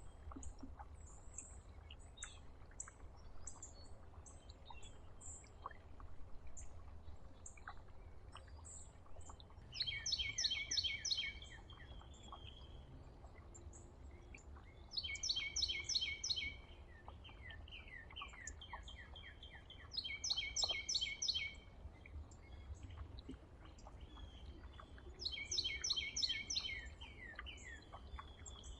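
Songbirds at a backyard feeder: one bird sings a short, fast run of repeated high notes lasting about a second and a half, four times at roughly five-second intervals, over scattered short high chirps from other birds.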